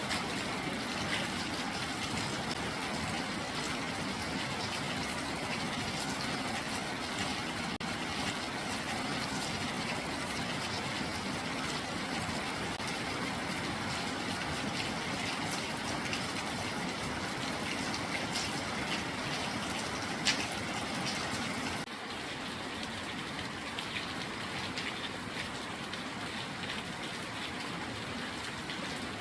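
Steady rainfall: an even hiss of rain with scattered drops ticking through it. It turns a little quieter about 22 seconds in.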